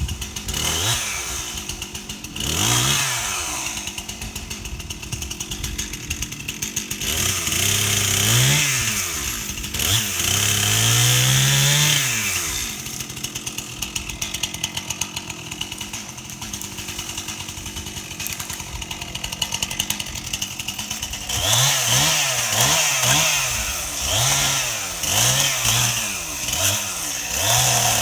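Stihl MS 261 C two-stroke chainsaw running, revved up and down again and again with steadier stretches between; over the last several seconds it is revved in quick bursts about once a second.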